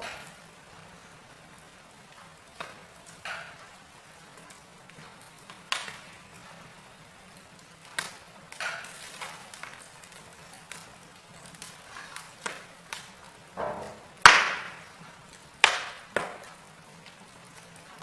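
Wood fire in a fireplace crackling: irregular sharp pops and snaps over a faint steady hiss, the loudest pop about fourteen seconds in, followed by two more a second or two later.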